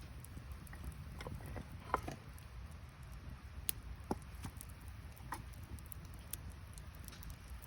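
Wood campfire crackling, with scattered sharp pops, the loudest about two seconds in. The gathered firewood is still damp from rain.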